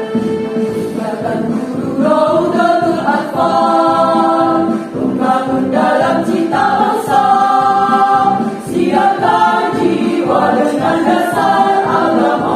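Choir singing a march over an instrumental accompaniment with a steady beat; the voices come in about two seconds in.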